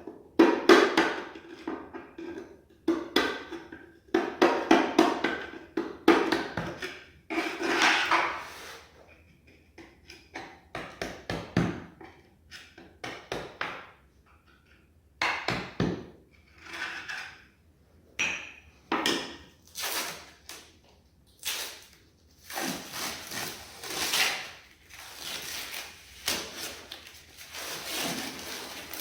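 Irregular knocking, tapping and scraping of hand tools and materials working on a tiled kitchen floor, with longer scraping sounds in the second half.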